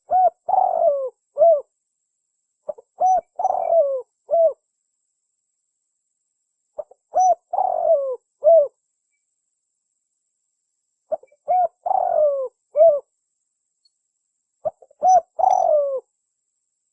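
Spotted dove cooing: five repeated phrases a few seconds apart, each a couple of short notes, a longer falling coo and a short closing note.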